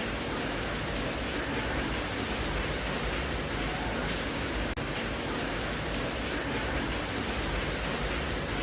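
Steady rain-sound track, an even hiss of rainfall with no separate drops or other events standing out. It is broken once by a momentary dip about halfway through.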